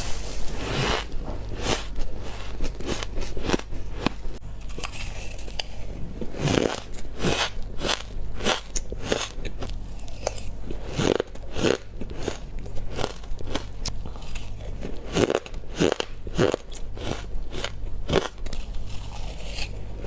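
A person biting into chunks of white ice, each bite a sharp crunching crack, coming irregularly one after another throughout, over a steady low hum.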